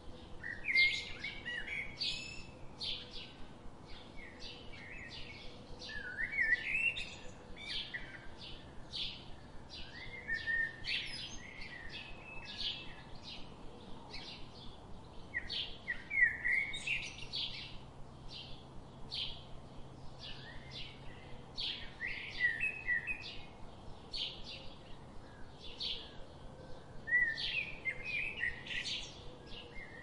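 Small songbirds chirping busily. A stream of short, high chirps runs throughout, and lower twittering phrases break in every four to six seconds.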